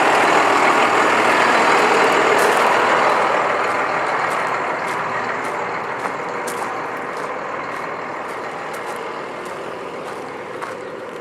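Box truck with a turbocharged Cummins 12-valve diesel running as it moves, louder for the first few seconds and then fading steadily as it pulls away.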